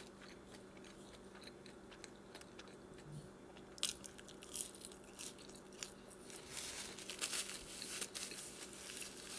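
Close-up eating sounds: a bite into a bunch of McDonald's french fries just before four seconds in, then chewing with many small clicking mouth noises to the end.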